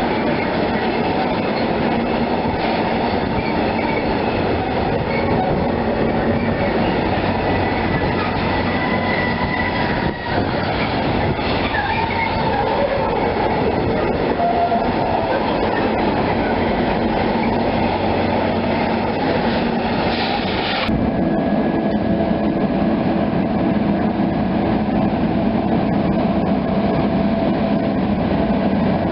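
A train running on the rails: a loud, steady rolling noise with some held tones above it. About two-thirds of the way through, the sound changes abruptly to a steadier hum.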